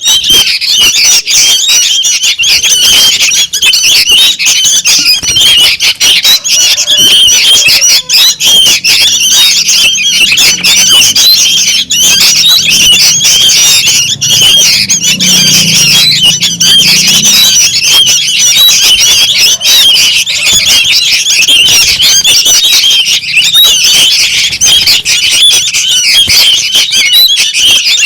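A clamour of young sooty-headed bulbuls (kutilang) calling noisily: many shrill, squawking begging calls overlapping without a pause. This is the chick chorus used as a lure call to draw in adult bulbuls.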